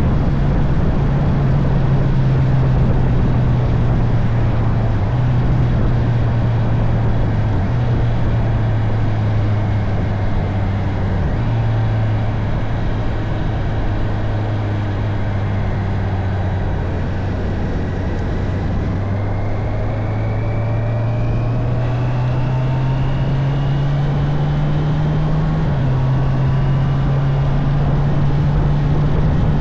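Honda CB650R inline-four engine running on the move, over steady wind rush. Its note sinks slowly, climbs from a little past the middle, then drops suddenly near the end.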